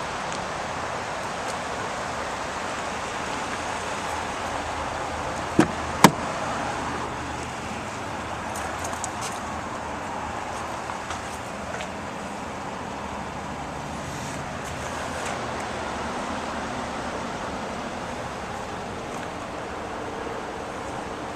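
Steady hum of passing road traffic, with two sharp clicks close together about six seconds in.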